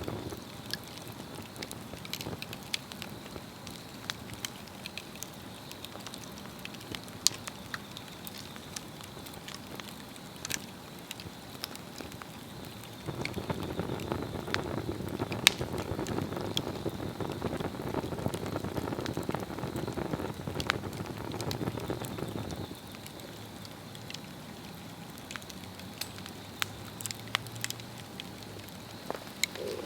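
Swedish torch log fire burning, crackling with scattered sharp pops. For about ten seconds in the middle a louder low rushing sound rises over the crackle, then drops away suddenly.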